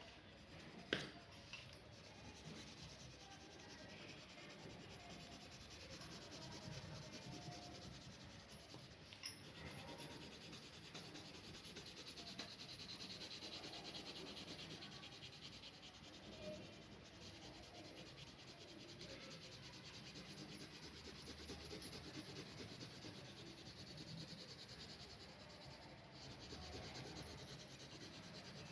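Faint scratching and rubbing of a pen drawing lines on paper, with a single sharp click about a second in.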